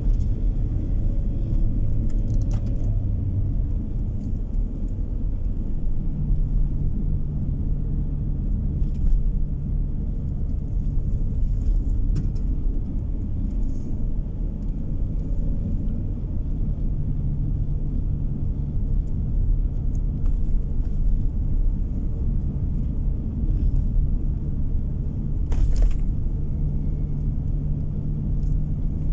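A car driving on the road, heard from inside the cabin: a steady low rumble of engine and tyres. About six seconds in, a steady low drone joins it, and near the end there is a brief click.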